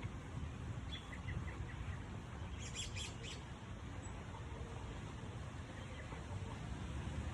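A few short, faint bird chirps, with a quick cluster of them about three seconds in, over a steady low rumble.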